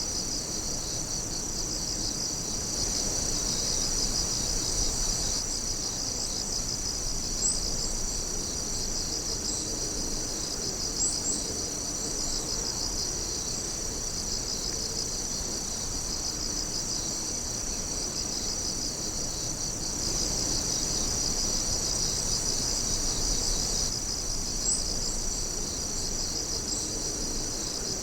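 Night chorus of crickets: several high-pitched songs trilling steadily and overlapping, one with a fast pulsing rhythm.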